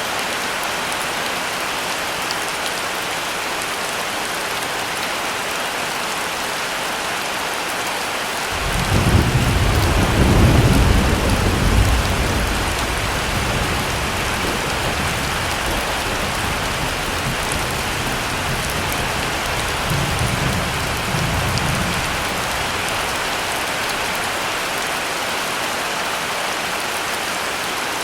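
Heavy rain falling steadily, with a roll of thunder that breaks in suddenly about eight seconds in, swells and rumbles for several seconds, then fades, with a smaller rumble later on.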